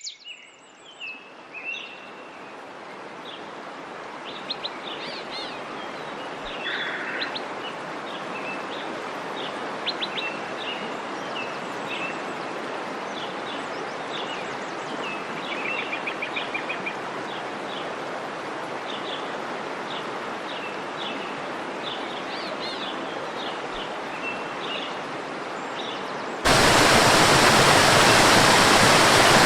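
Rushing waterfall water with many birds chirping over it. About 26 seconds in, it cuts suddenly to much louder rushing water and the birdsong is no longer heard.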